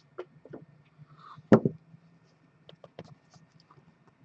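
Objects handled on a tabletop: one sharp knock about a second and a half in, then a few light clicks and taps.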